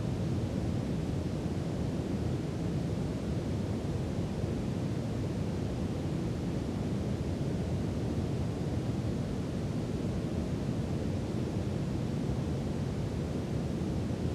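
Brown noise: a steady, even, deep rushing hiss with most of its weight in the low end and no changes.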